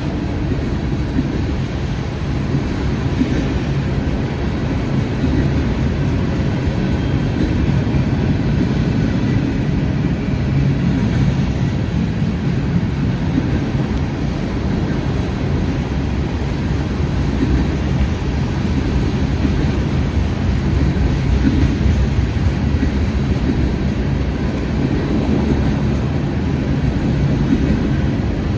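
Freight train of trash cars rolling past, a steady low rumble of wheels on the rails.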